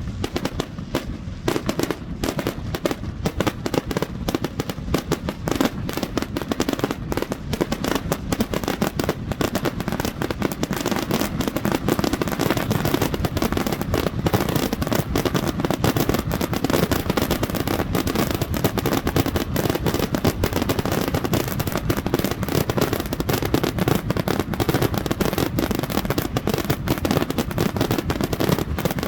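Fireworks going off in a dense, unbroken barrage of bangs and crackling, many bursts a second with no pause.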